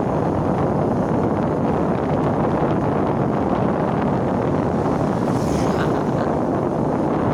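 Wind rushing over the microphone on a moving motorcycle: a steady, loud, low rumble that buries any engine note.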